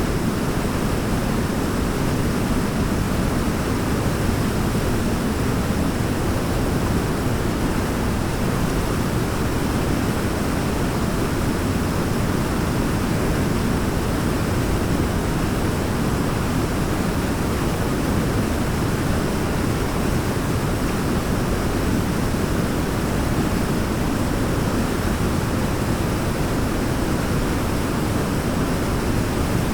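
A forest waterfall's steady, unbroken rush of falling water, deep and even, with no change in level.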